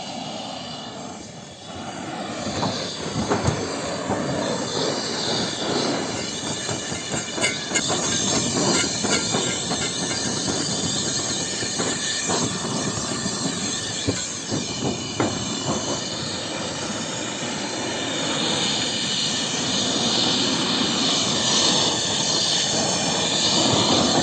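Roof sheet metal being cut with a power tool: a continuous metallic screech with scattered clicks and clatter.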